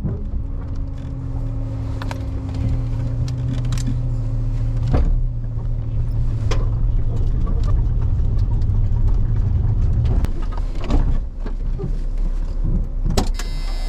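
Drag race car engine idling steadily, with its throttle cable broken so it sits at idle. The idle note drops away about ten seconds in, leaving scattered clicks and knocks.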